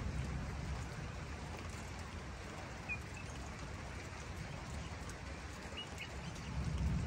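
Outdoor ambience: a steady low rumble and hiss, with a few short high bird chirps, once about three seconds in and again near six seconds. The rumble swells near the end.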